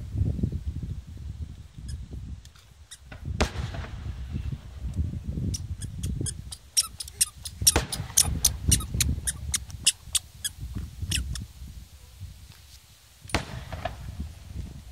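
Fireworks display, a starmine barrage: low booms of shells bursting overlap throughout. A dense run of sharp cracks and pops comes in the middle, with single loud cracks before and after it.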